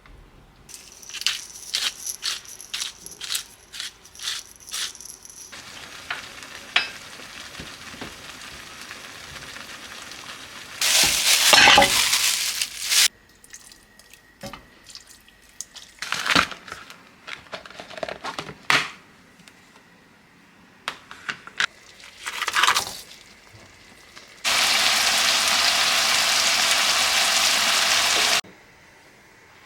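Home kitchen cooking sounds: a quick run of clicks and clinks of utensils, a few short scraping and rustling passes, then a steady hiss for about four seconds near the end that starts and stops abruptly.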